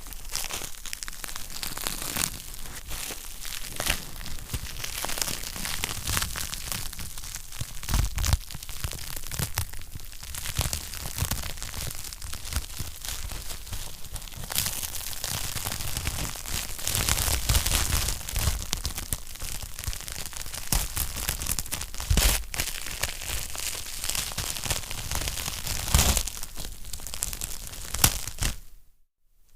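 Wood fire in a fireplace crackling, with a continuous hiss of small crackles and frequent sharp pops. The sound cuts out for about a second near the end, then resumes.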